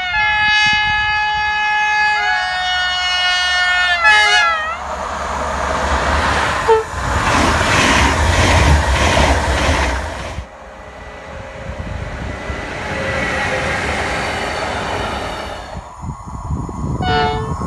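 PKP Intercity ED250 Pendolino electric train sounding its horn for about four seconds, stepping from a higher to a lower tone, then passing at speed with a loud rush of air and a fast beat of wheels for several seconds. Near the end a train horn gives a short blast.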